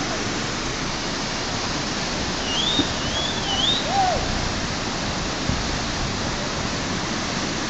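Rushing whitewater of river rapids: a steady, full hiss of water. A faint high wavering call rises over it about two and a half seconds in.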